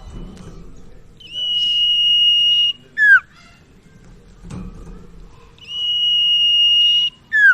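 Common iora (cipau) singing: a long, steady high whistle held for about a second and a half, then a short, sharply falling note. The phrase is given twice.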